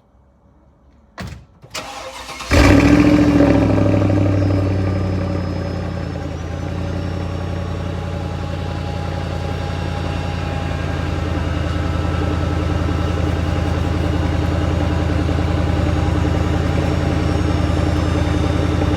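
Mercedes-Benz CLS 55 AMG's supercharged 5.4-litre V8 on a cold start: after a brief crank it catches about two and a half seconds in with a loud flare of revs, then settles into a steady idle.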